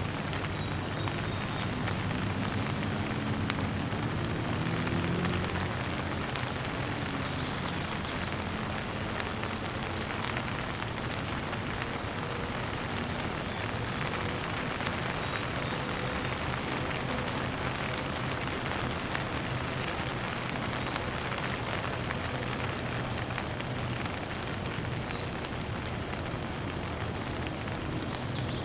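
Steady rain falling and pattering on surfaces, with a few faint, brief bird chirps high above the rain.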